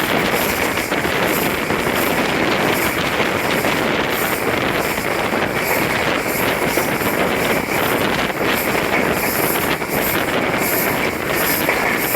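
Steady rushing of a passenger train running along the line, heard from on board with heavy wind on the microphone.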